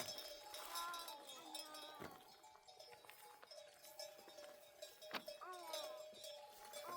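A flock of sheep bleating, with the loudest bleat about five seconds in, over the steady ringing of the bells the animals wear.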